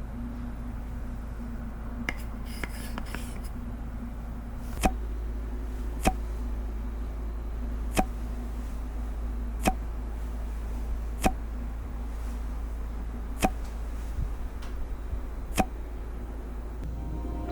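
Sharp single clicks, about one every one and a half to two seconds, over a low steady hum.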